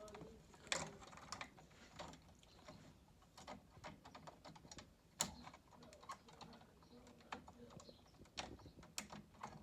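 Irregular light clicks and taps of small stairlift parts being handled and pushed back into place, with a few sharper clicks.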